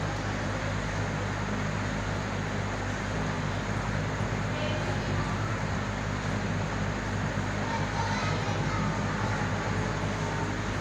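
Aquarium equipment running with a steady electric hum over an even hiss, with faint voices in the background.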